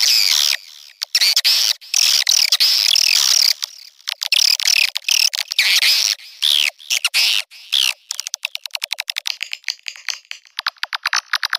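Swiftlet mating calls: bouts of high, twittering chirps with short pauses, turning about eight seconds in into a rapid run of sharp clicking notes, many a second.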